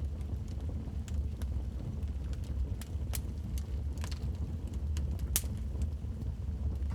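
Wood fire in a fireplace crackling: scattered sharp pops and snaps over a steady low rumble, the loudest pop a little past five seconds in.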